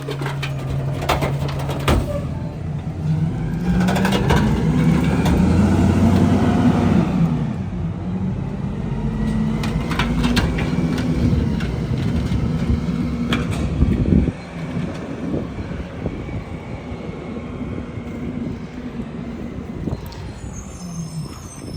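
Mack MRU garbage truck with a McNeilus rear-loader body running its packer: the engine revs up for the hydraulic compaction cycle while sharp cracks and knocks come from bulk trash being crushed. About two-thirds of the way through the revving drops off suddenly and the truck settles back to a quieter idle.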